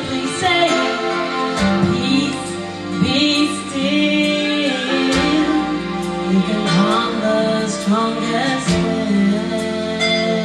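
Gospel group singing with instrumental accompaniment, long held notes that slide between pitches.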